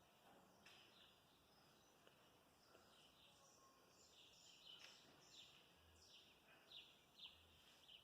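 Near silence with faint bird chirps from outside: short falling chirps, a few at first and then a quick run of them in the second half.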